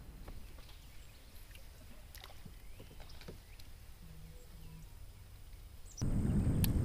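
Faint small clicks, knocks and water sounds from a kayak on a river. Near the end a much louder low rushing noise cuts in abruptly.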